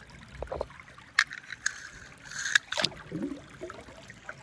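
A few sharp plastic clicks and light knocks from toy cars and track pieces of a plastic racing playset being handled, the loudest about two and a half seconds in, with a short faint falling sound just after.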